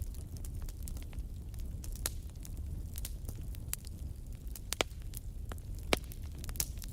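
Campfire crackling with scattered sharp pops of burning wood, two of them louder about two-thirds of the way through, over a low steady rumble.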